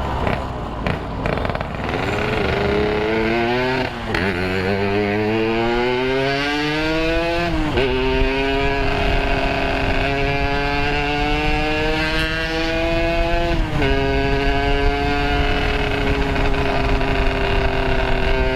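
Yamaha RX-King's 135 cc two-stroke single-cylinder engine, with a Boban C33 aftermarket exhaust, accelerating up through the gears while ridden. The engine pitch climbs and drops sharply at each of three upshifts, then holds fairly steady at a cruise.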